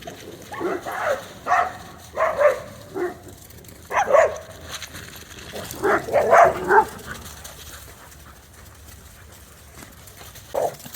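Dog barking in short, separate barks over the first seven seconds, the loudest run of barks about six seconds in, then a single bark near the end.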